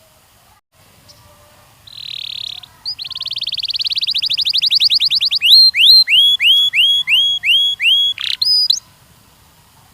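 A canary sings one song phrase. It opens with a short buzzy note, then a fast trill that grows louder, then a run of about seven loud, slurred whistled notes a little under two a second, and it ends with a final note shortly before 9 s.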